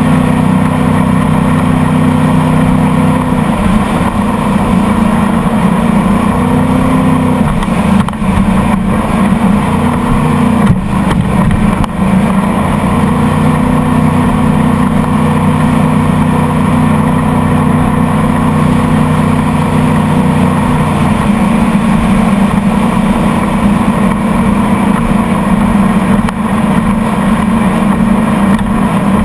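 Motorboat engine running under way, its pitch stepping down and back up a few times as the throttle changes, with a few short knocks near the middle.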